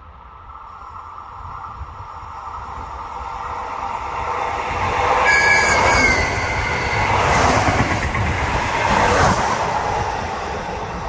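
ETR 252 'Arlecchino' electric train passing through a station without stopping. It grows louder as it approaches, is loudest for a few seconds as the cars go by, then fades as it moves away. A brief high-pitched double tone sounds about five seconds in.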